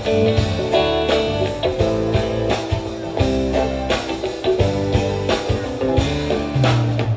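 Live band music with no singing: a guitar plays a run of notes over bass and a steady drum beat.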